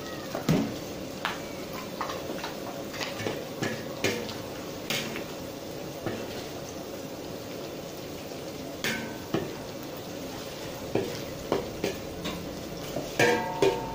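Dried anchovies sizzling in hot oil in an aluminium wok, with a steady hiss of frying. A metal spatula scrapes and knocks against the wok as they are stirred, and the knocks come thicker near the end.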